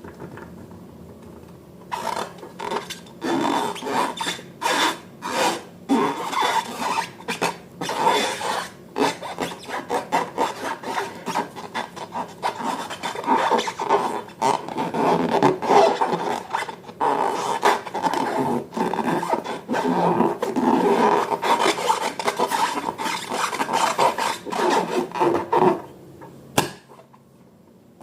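Slime being mixed and squished by hand: a dense, irregular run of sticky crackling and rubbing noises that starts about two seconds in and stops near the end.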